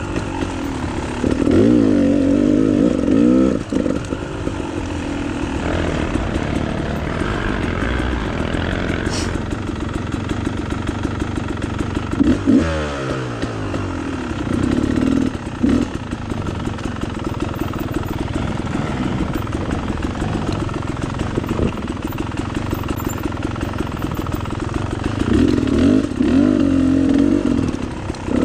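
Dirt bike engine running on a trail ride, the throttle opening and closing so the revs rise and fall repeatedly, with one quick drop in revs about halfway through.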